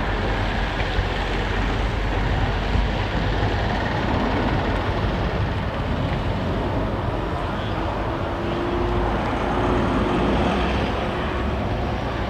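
Airbus A400M Atlas in flight, its four turboprop engines and propellers making a steady rumbling noise; a faint steady drone joins partway through.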